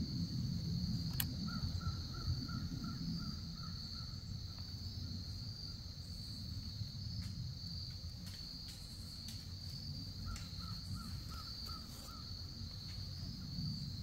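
A bird calling in two runs of seven or eight short, evenly repeated notes, about a second and a half in and again about ten seconds in, over a steady high-pitched drone of insects.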